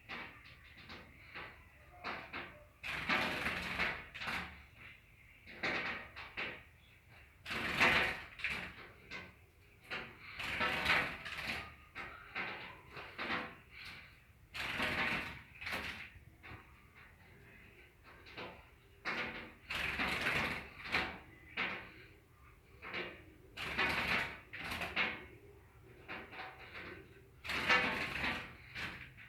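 A small bird fluttering and scrabbling against a mirror at its own reflection, in repeated bursts about a second long, a few seconds apart.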